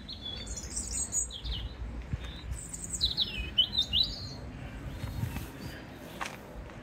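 A small songbird singing in two short spells of high, quick warbling phrases over a low rumble, with a single tap near the end.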